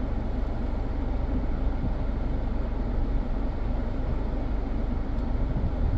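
Steady low rumble and hiss of a car heard from inside the cabin: the engine running with the ventilation fan blowing.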